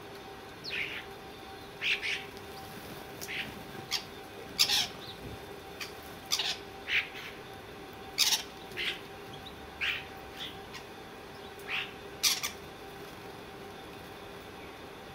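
Birds giving short, harsh squawking calls, one every second or so at an uneven pace.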